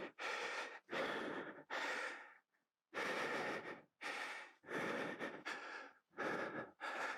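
A man breathing hard, quick noisy breaths in and out about once a second with a short pause partway through: he is out of breath from the exertion.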